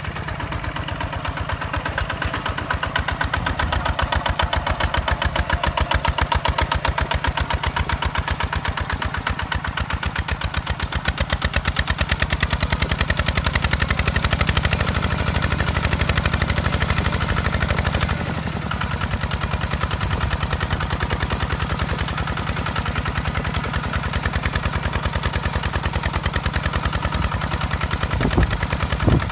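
Single-cylinder diesel engine of a walk-behind two-wheel tractor running under load, a rapid, even chugging knock that holds steady, easing slightly about two-thirds of the way through.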